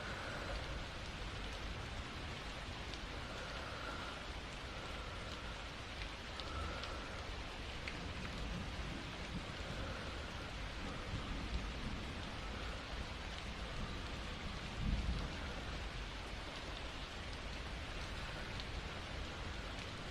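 Steady rain falling, with a constant low rumble underneath. A louder low rumble of thunder comes about three quarters of the way through.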